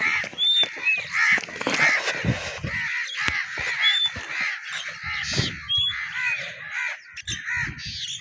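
A flock of birds calling all at once: many short, harsh, caw-like calls overlapping without a break, with a few higher short whistled notes among them and occasional low knocks.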